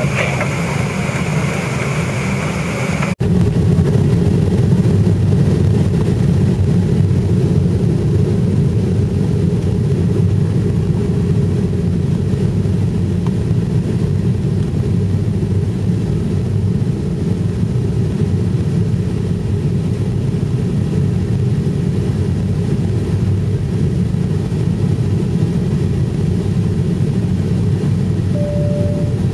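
Steady low rumble of a jet airliner's engines and airflow heard inside the passenger cabin in flight before landing. There is a brief break about three seconds in and a short single tone near the end.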